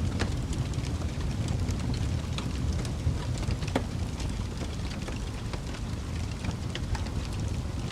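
Campfire burning: wood crackling with scattered sharp pops over a steady low rumble, with a couple of louder pops.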